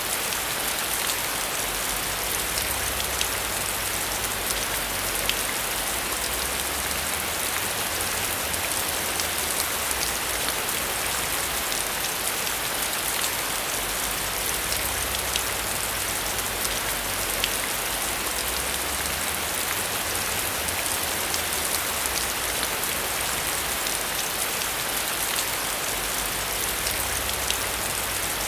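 Heavy rain falling steadily on a metal roof: a dense, even hiss with individual drops ticking through it.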